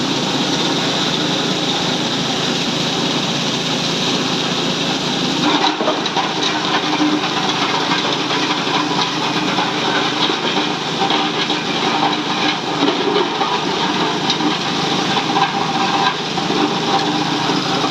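Motorized ice-cube crusher running with a steady, loud noise. From about five seconds in, many small irregular clicks and rattles join it.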